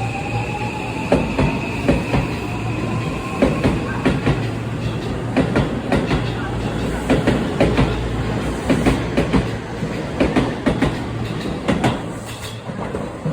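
Seibu Laview limited express train pulling away: a motor whine rising in pitch over the first few seconds, then wheels clacking over rail joints in a quickening rhythm, the sound thinning near the end as the train draws off.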